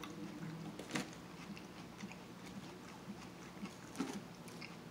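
Chewing and biting of seafood salad close to the microphone, with a plastic fork clicking against a foam takeout container about a second in and again near the end.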